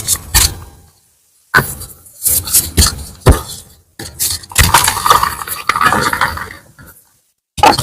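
Block of reformed gym chalk being crushed, crunching and crumbling in four bursts of crackle separated by short silences.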